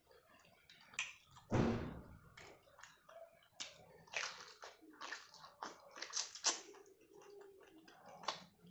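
Close-miked eating: wet chewing and smacking clicks of the mouth on dal and rice eaten by hand, and bites into a leaf of boiled cabbage. One louder, fuller sound comes about one and a half seconds in, and short clicks follow irregularly.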